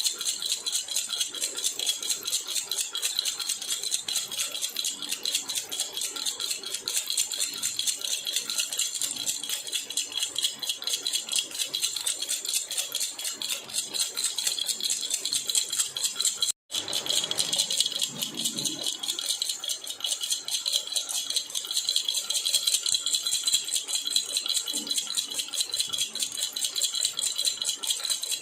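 Silver jhunjhuna (metal baby rattle) shaken continuously in a fast, even jingle. It drops out for an instant about two-thirds of the way through, then carries on.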